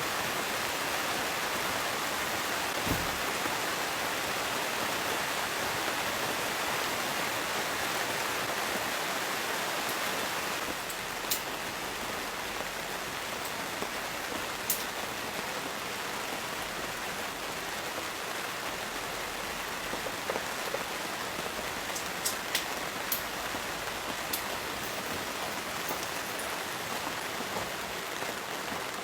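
Steady rain, with a few scattered sharp drop ticks; the rain noise drops a little in level about a third of the way in.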